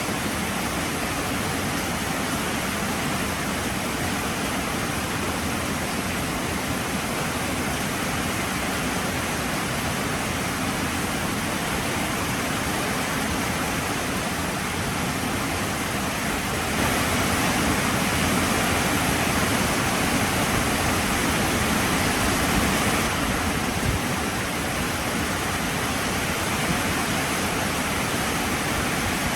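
Heavy rain falling steadily, a dense even hiss. A little past halfway it grows louder and brighter for about six seconds, then eases back.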